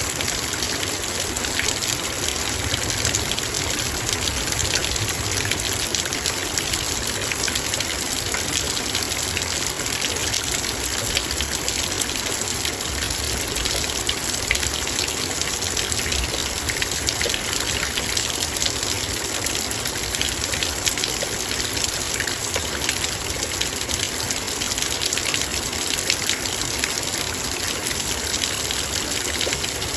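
Heavy rain falling steadily on a metal bowl: a dense, even hiss of drops with many small sharp ticks throughout.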